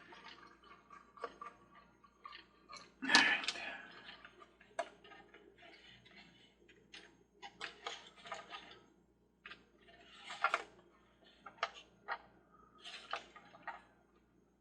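Small plastic and metal carousel parts being handled: irregular light clicks and taps, with a louder clatter about three seconds in.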